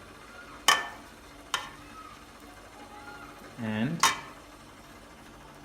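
A utensil knocking on dishware: three sharp clicks, one under a second in, one at about a second and a half, and a loud one near four seconds.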